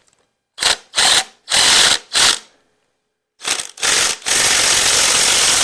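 Power wrench spinning fasteners off an engine during teardown, run in four short trigger bursts and then one longer run of about two seconds, with a fast rattle.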